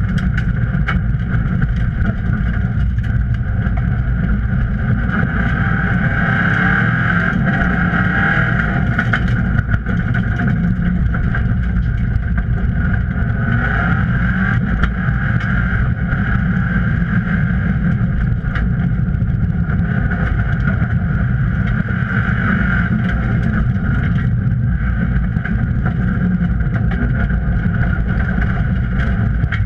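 Subaru rally car's flat-four engine running hard under load, heard from inside the stripped, roll-caged cabin, its pitch shifting as the driver works the gears. A single sharp knock about ten seconds in.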